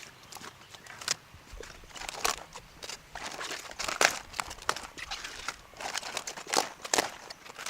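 Irregular rustling and crinkling, dotted with sharp clicks and crackles that come thicker after the first couple of seconds.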